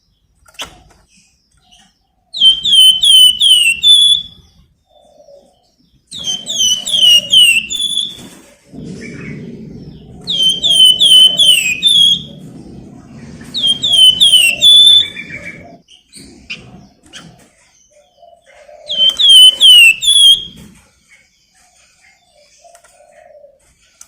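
A flamboyan songbird singing in five short bursts, each a quick run of four or five high, falling whistled notes.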